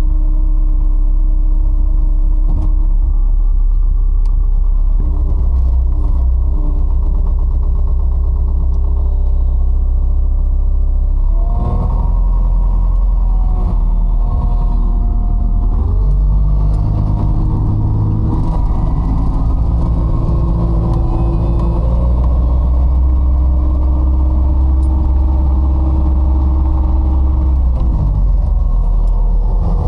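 ASV RC100 skid steer's diesel engine running, its pitch and load shifting several times as the hydraulics are worked: about a third of the way in, around halfway, and again near the end.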